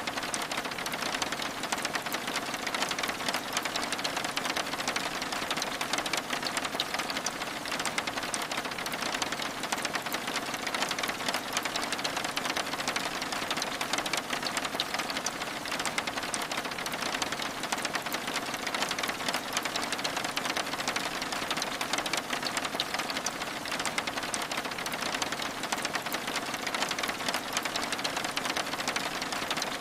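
Steady rain on window glass: a dense, even patter of many small drops.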